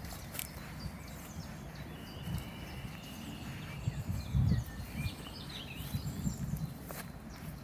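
Birds chirping and whistling over a steady outdoor hiss, with a few dull low thumps.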